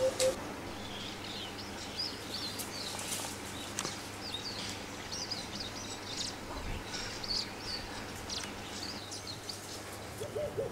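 Small birds chirping and twittering in the background: many short, high calls come one after another throughout, over a steady faint hiss. Two short low notes sound right at the start.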